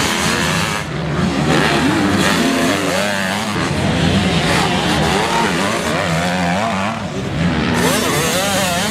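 Several motocross motorcycles racing, their engines revving up and down in overlapping, wavering pitches.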